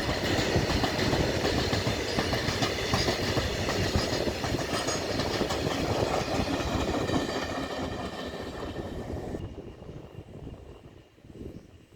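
Goods train passing at speed, its wagons' wheels making a dense rattling clatter over the rails. The sound fades over the last few seconds and drops off sharply about nine and a half seconds in.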